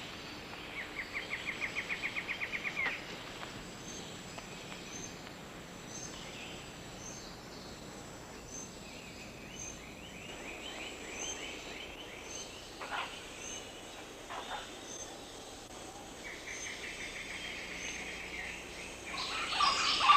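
Rainforest ambience: a bird gives rapid runs of notes, the first growing louder, over faint high chirps repeating about once a second. Louder animal calls break in near the end.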